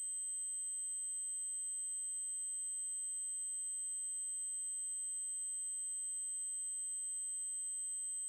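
Steady, high-pitched electronic test tone: an 8192 Hz triangle wave held at one pitch.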